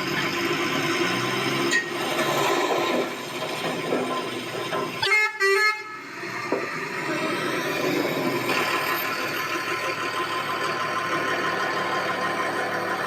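Toy vehicle's electronic horn sounding in two short honks about five seconds in, over a steady background noise.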